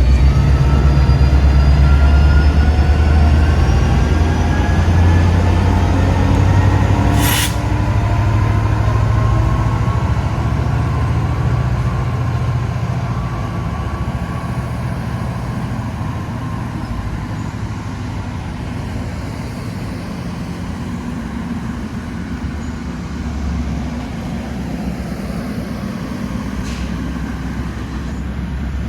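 Commuter train rumbling as it pulls away, with several tones rising steadily in pitch as it gathers speed. There is a short sharp air hiss about seven seconds in, and the rumble slowly fades.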